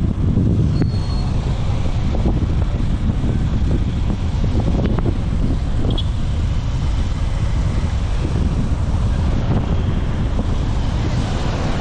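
Wind rushing over the microphone of a rider on a moving boda boda motorcycle taxi, over the steady low rumble of the motorcycle and road traffic.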